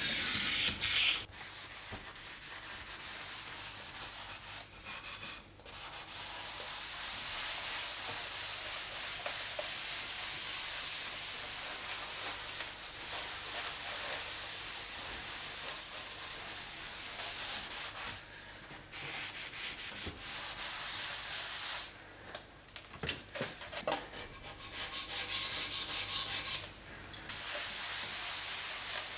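Surface being scrubbed by hand: a steady rubbing scrub that stops briefly three times, about 18, 22 and 27 seconds in.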